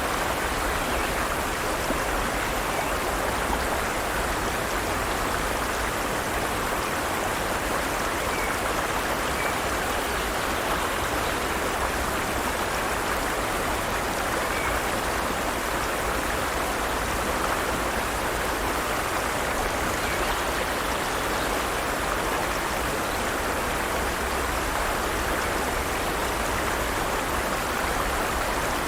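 Forest stream: water running and splashing over rocks in a steady, unbroken rush.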